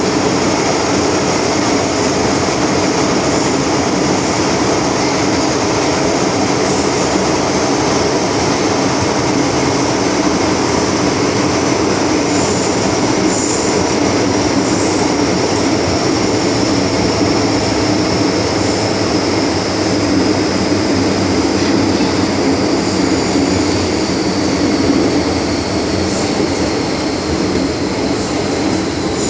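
MTR M-Train (Tseung Kwan O line) running between stations, heard from inside the car: a steady rumble of wheels on track, with a high whine that slowly falls in pitch near the end.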